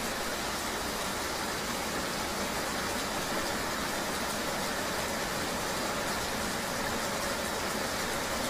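Steady rain mixed with vehicle road noise: an even, unchanging hiss.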